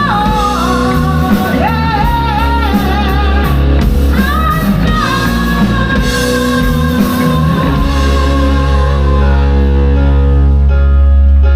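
Live rock band playing: electric guitar, bass and drum kit under a wavering lead melody line. About eight seconds in the drums thin out, leaving held bass and guitar chords ringing.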